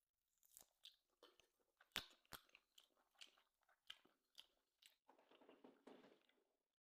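Faint, close-miked chewing of a bite of tomahawk steak: wet mouth clicks and smacks at an uneven pace, with two sharper clicks about two seconds in and a denser run of chewing near the end.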